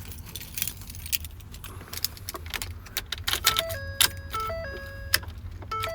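Keys jangling and clicking in the 2013 Ford F150 Raptor's new ignition switch as it is turned, followed from about halfway through by the truck's repeating electronic dash chime. There is no starter cranking at all: the intermittent no-crank, no-start fault is still there.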